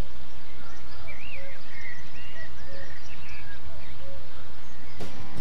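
Birds singing around a pond over a steady low rumble, with a short low call repeating about every second and a half. Near the end, loud music starts abruptly.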